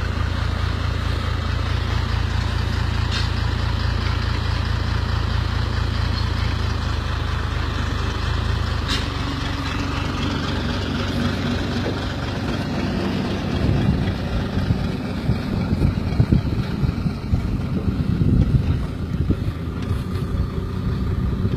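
Ford F-250 mega truck's engine running: a steady low drone for about the first nine seconds, then after a sharp click the note changes, and from about fourteen seconds in it rises and falls in uneven surges.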